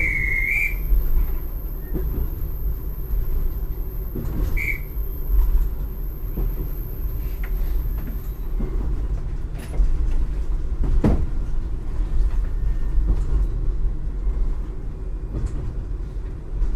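Train running on the line, a steady low rumble with a few scattered knocks, the sharpest about eleven seconds in. Two short high squeaks come at the start and about four and a half seconds in.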